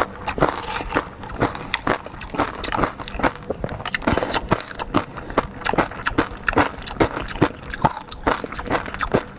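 Close-miked eating sounds: a person biting and chewing food, with a quick, irregular run of small wet clicks and smacks.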